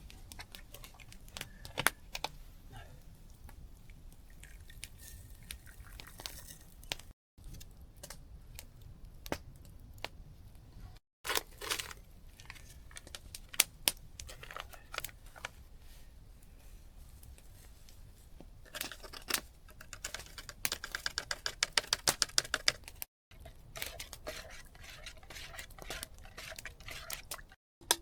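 Camp cooking handling sounds: clicks and scrapes of a utensil working in a cooking pot, with rustling and tearing, in several short cut-together pieces. Near the end comes a fast run of evenly spaced clicks, like rapid stirring or scraping against the pot.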